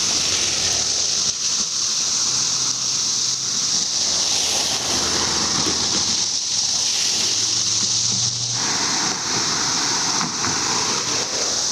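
Dense chorus of cicadas, one loud unbroken high-pitched drone.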